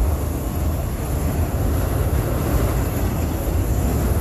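Freight train cars rolling past at close range: a steady, heavy low rumble of wheels on rail.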